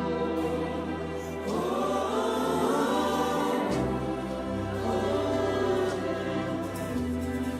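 Gospel worship music: a choir sings slow, drawn-out lines over long held low bass notes, which change twice.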